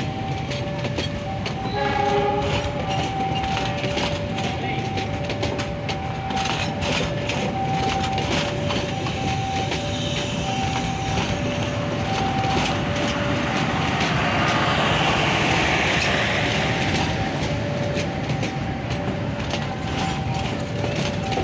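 A train passing, with a short horn blast about two seconds in and a swell of wheel hiss near the middle. Throughout, a two-tone warning signal alternates high and low at an even beat, like an Indonesian level-crossing alarm.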